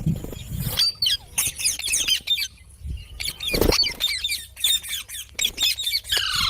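Parrots giving rapid, short, high squawks and chirps, one after another, with a few soft knocks in between.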